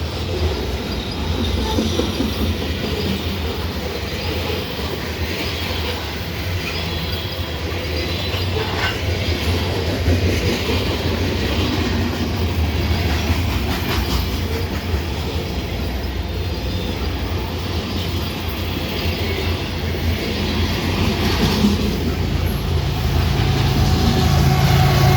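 Railcars rolling past on the track: a steady low rumble with wheel clatter and faint wheel squeal. Steadier pitched tones come in near the end as the sound grows louder.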